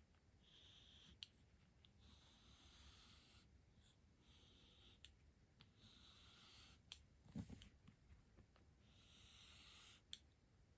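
Faint rustling and rubbing from stationery items and their packaging being handled, in short strokes, with small clicks and one soft knock about seven and a half seconds in.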